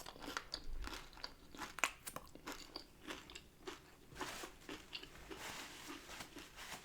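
Someone biting and chewing a crunchy hard-shell taco close to the microphone: a run of irregular, crisp crunches.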